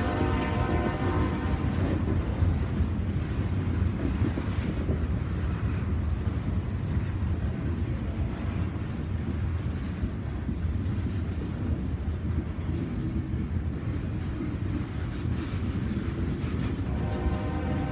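Freight train rumbling past steadily. A train horn chord fades out over the first couple of seconds and sounds again near the end.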